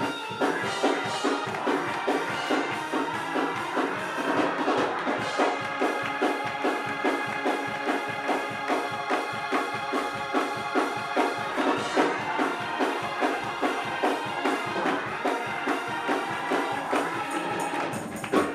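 Up-tempo gospel praise-break music with an organ and a drum kit keeping a fast, steady beat.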